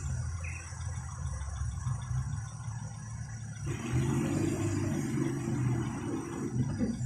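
Vehicle engine running steadily, then revving up and working harder about four seconds in as it takes the strain of towing a van bogged in mud.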